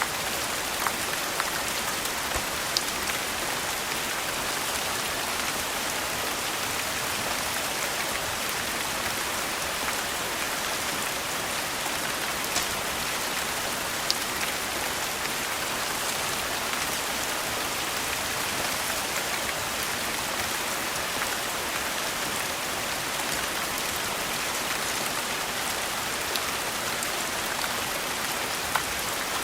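Steady rain falling, an even hiss with a few sharp clicks scattered through it.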